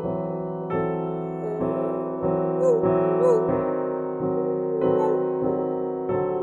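Piano playing slow sustained chords, with a man's voice imitating a dog singing along in short, wavering howl-like notes.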